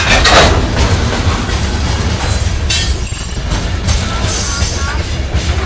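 CSX freight train cars rolling past slowly with a steady low rumble, and a brief high-pitched squeal from the wheels about three seconds in, the loudest moment.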